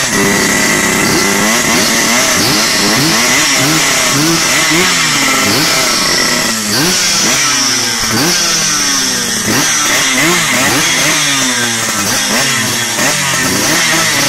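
Small motorcycle engines with 57 mm big-bore cylinders, a Yamaha Z and a Modenas Dinamik, revved again and again, the pitch climbing and dropping more than once a second. Overlapping sweeps at different pitches suggest both bikes are running.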